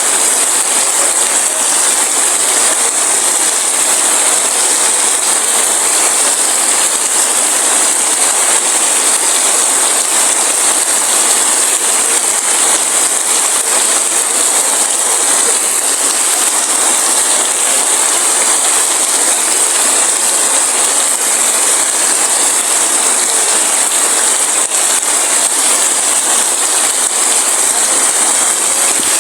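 Heavy rain falling steadily: a dense, even rush of noise, brightest at the high end, with no thunder.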